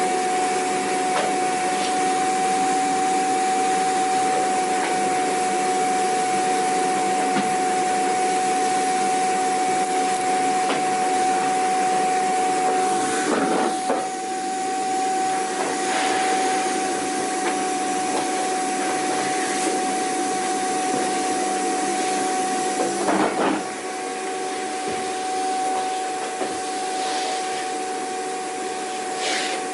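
Vacuum cleaner running steadily, a constant whine over the hiss of its airflow. A few brief knocks come about halfway and again near the end, and after them it runs a little quieter.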